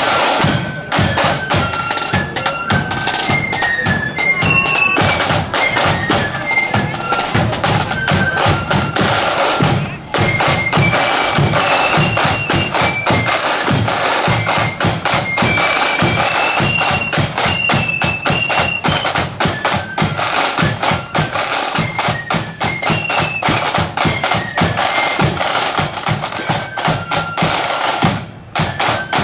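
A marching band playing a tune, with a shrill, high melody over fast, steady drumming. The music dips briefly twice, about ten seconds in and near the end.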